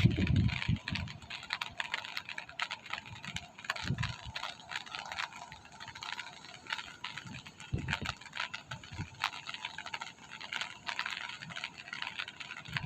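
Rain falling: a steady hiss full of many small, sharp ticks of drops striking, with a few low bumps.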